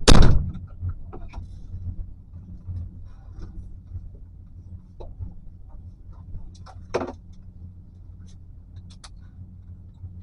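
Steady low rumble of a vehicle, with a loud thump right at the start and a sharper knock about seven seconds in, plus scattered small clicks.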